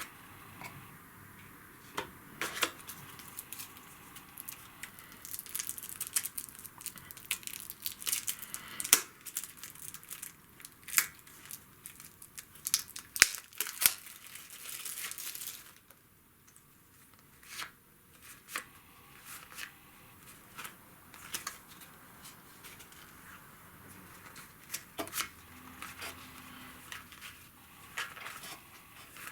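Board game packaging being opened and handled: plastic and paper crinkling and tearing, with many sharp crackles and taps. It is busiest in the first half, stops suddenly about sixteen seconds in, and only scattered taps follow.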